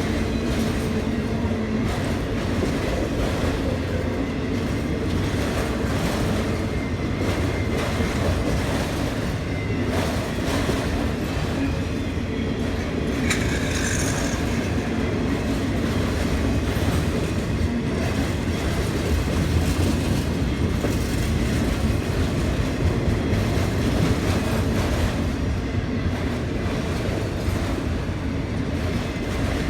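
Autorack freight cars of a CSX auto carrier train rolling past steadily, their wheels rumbling and clacking over the rails. About halfway through comes a brief high wheel squeal.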